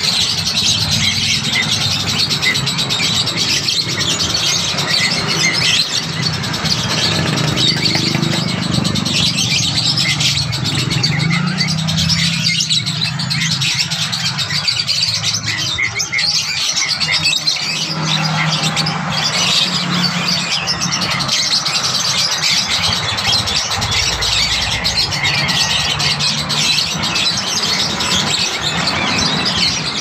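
Many caged birds chirping at once in a dense, continuous chatter, over a steady low rumble.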